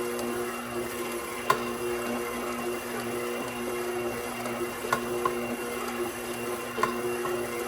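KitchenAid Professional 6000 HD stand mixer's DC motor running steadily at low stir speed, turning a spiral dough hook through bread dough. Four sharp knocks sound over the hum, the loudest about a second and a half in.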